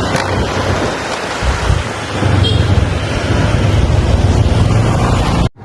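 Wind rushing over the microphone while riding a motorbike, with the bike's engine running steadily underneath. The sound cuts off suddenly near the end.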